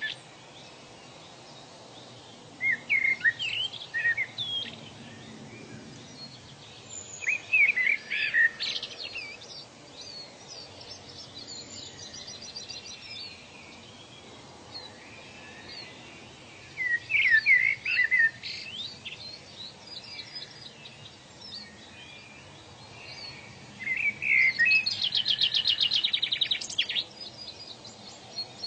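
Wild birds singing in separate bursts of quick whistled and chirping notes, with one longer, rapid trill near the end, over a steady background hiss of outdoor ambience.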